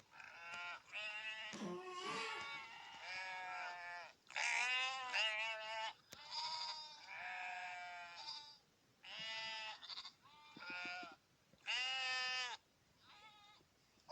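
Lambs bleating again and again in high, wavering calls. Several overlap for the first four seconds, then they come one at a time with short gaps, the last one faint. A deeper bleat comes in about two seconds in.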